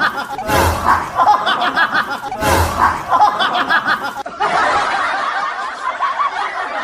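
Several people laughing and chuckling over one another, a laugh-track effect, with two loud thumps in the first half and a denser stretch of laughter in the second half.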